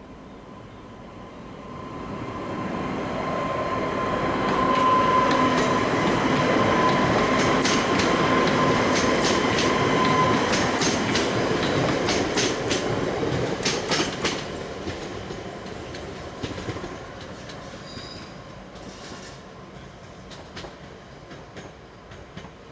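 A train passes over the level crossing: it grows louder over the first few seconds, its wheels click rapidly over the rail joints, and a steady high whine sounds through the first half. It then fades away.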